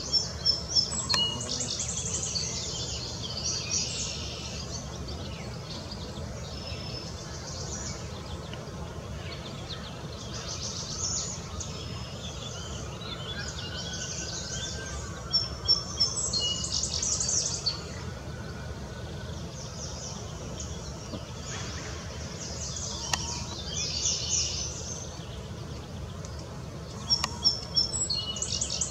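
Small birds chirping and whistling in several short spells, over a steady low background noise.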